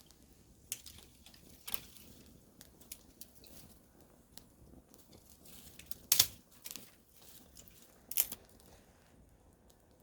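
Wood campfire crackling, with scattered sharp pops, the loudest about six and eight seconds in.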